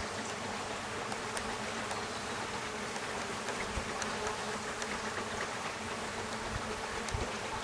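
Honeybees buzzing steadily around an open top-bar hive, a dense swarm-like hum of many bees in flight; the colony is agitated and defensive.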